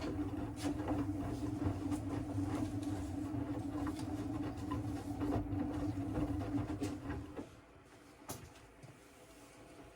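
Siemens WM14T490 front-loading washing machine turning its drum during the wash: a steady motor hum with a low rumble and scattered knocks, which stops about seven seconds in as the drum pauses before reversing. The machine has damaged drum bearings, audible as the rumble.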